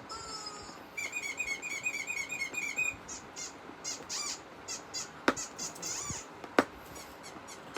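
Bird-like chirping: a fast run of high chirps, about five a second, lasting about two seconds. Then come scattered short high chirps and two sharp clicks.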